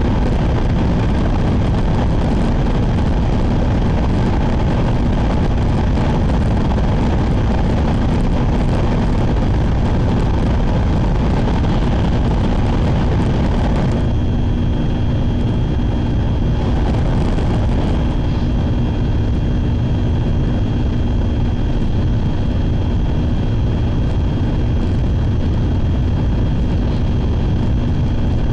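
Cabin noise of a Sakura Shinkansen (N700-series) bullet train running at speed: a loud, steady rumble and rush. About halfway through, the hiss abruptly thins and a steady hum with a faint high whine comes through.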